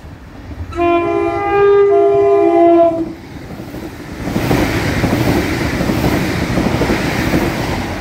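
NI Railways diesel multiple unit sounds its two-tone horn for about two seconds, about a second in, then runs through the station at speed with a loud rush of wheels on rail and rumble from about four seconds on.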